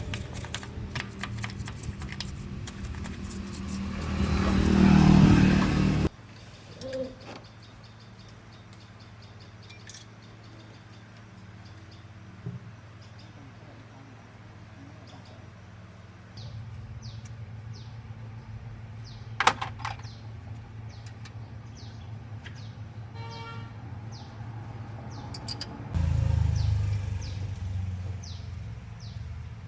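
A motor vehicle engine running and swelling louder, then cut off abruptly about six seconds in. After that a quieter low engine hum runs on with birds chirping, and near the end the engine grows louder again for a couple of seconds.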